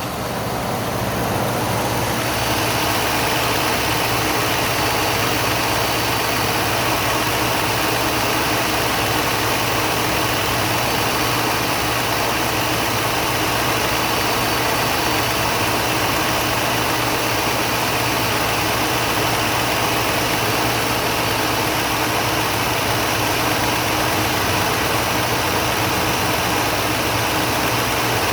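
The 2017 Ford F-150's 5.0-litre V8 engine idling steadily, growing louder over the first two seconds and then holding an even pitch.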